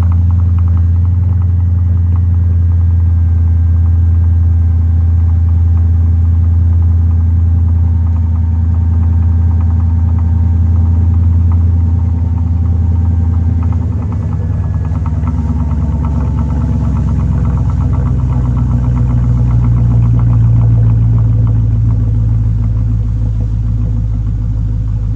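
Mercedes-Benz CLS 55 AMG's supercharged 5.4-litre V8 with its mufflers deleted, idling loud and steady after a cold start. Its tone changes about 14 seconds in and then holds steady.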